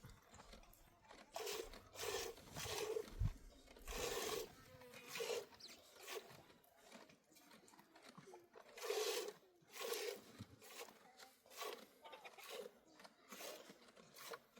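A series of short, irregular crunching and scraping strokes, roughly one every half-second to a second.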